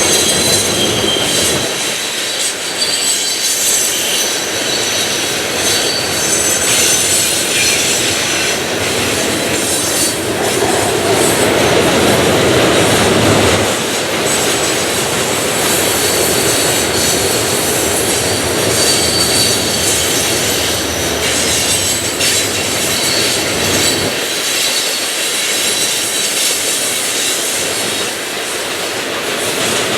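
Cars of a grain train rolling past on the rails, with steady wheel noise, high wheel squeal and clacking over the rail joints.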